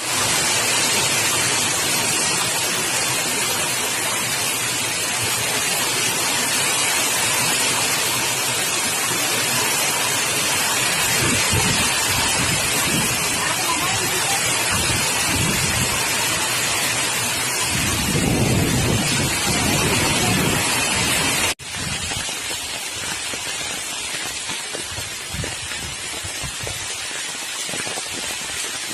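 Heavy rain falling, a dense steady hiss. A low rumble swells for a few seconds past the middle, and a little later the sound cuts abruptly to slightly quieter rain.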